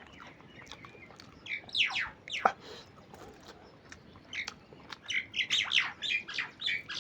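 A bird chirping: a few quick downward-sliding calls, then a rapid run of short high chirps near the end.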